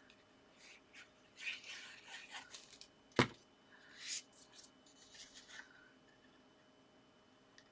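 Paper and card being handled on a craft table: short rustles and scrapes as pieces are slid and pressed into place, with one sharp tap a little over three seconds in, the loudest sound.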